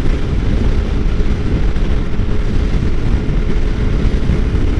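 2013 Suzuki GSX-R600's inline-four engine running steadily at highway cruising speed, heard from the rider's seat as a dense, even drone with a constant hum and rushing noise.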